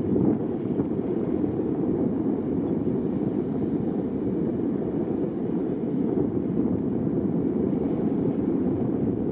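Steady rumble of a boat under way: engine noise mixed with wind on the microphone and water rushing past the hull, unbroken throughout.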